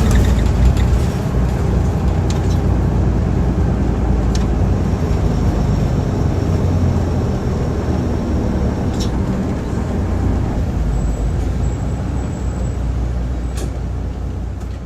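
Hino Blue Ribbon II city bus's turbocharged diesel engine running as the bus drives, a steady low drone that slowly eases off over the second half, with a few sharp clicks.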